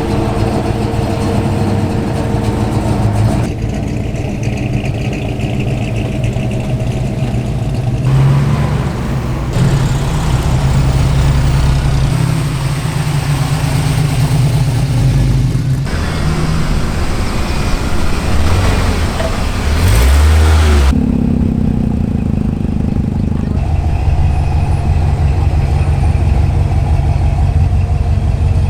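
Car engines running, a string of short clips that cut abruptly from one car to the next, with a brief rev about two-thirds of the way through.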